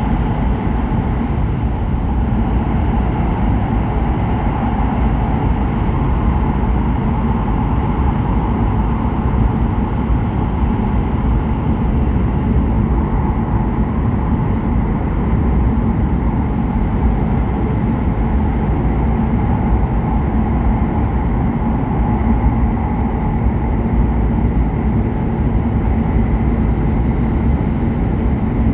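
Steady running noise of an E7/W7 series Hokuriku Shinkansen train at speed, heard from inside the passenger cabin: a continuous low rumble with no breaks. A faint steady whine joins it near the end.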